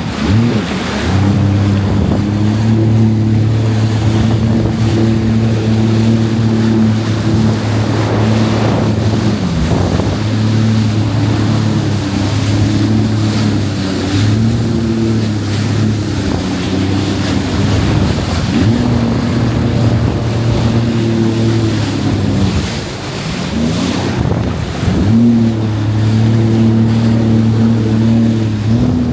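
Jet ski engine running under way, its steady tone dipping and picking up again several times as the throttle eases off and opens, with wind and water rushing past.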